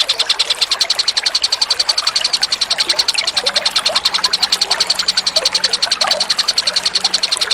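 A songbird's rapid, steady, high-pitched pulsing trill of about a dozen notes a second, part of a bird-song training recording, with faint short gurgling sounds beneath it.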